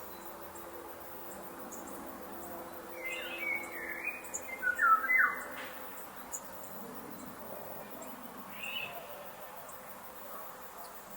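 Forest ambience with a songbird singing a short phrase of falling whistled notes about three seconds in, the loudest sound here, and a brief call later on. Faint regular high ticking runs under a steady soft background.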